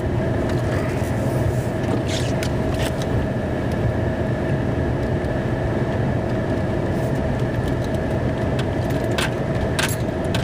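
Snow plow truck running, heard from inside the cab: a steady engine rumble with a steady whine over it, and scattered light clicks and rattles.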